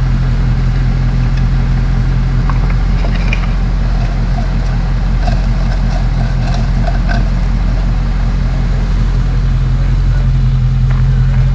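Motor vehicle engine idling steadily, a low even hum that holds throughout.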